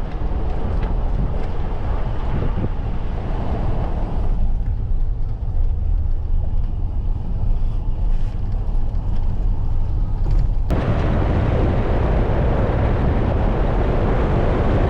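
Steady low rumbling noise that changes abruptly twice, thinning out about four seconds in and growing fuller again about ten and a half seconds in.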